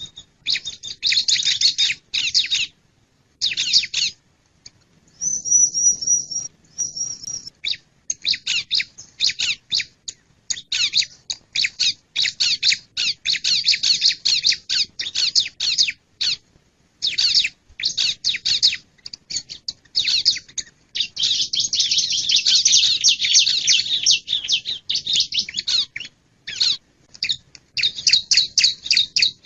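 Male bar-winged prinia (ciblek) calling: fast runs of high, scratchy chirps in bursts with short pauses. A few thin, steady whistled notes come about a quarter of the way in, and the chirping runs unbroken for several seconds after the middle.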